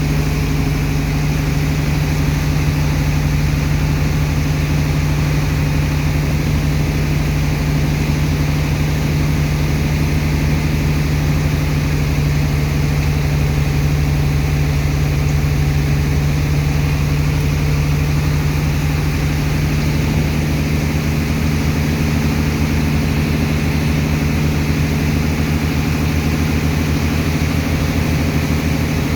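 Engine of a sand-unloading dredger pump running steadily at constant speed, a loud, even low hum.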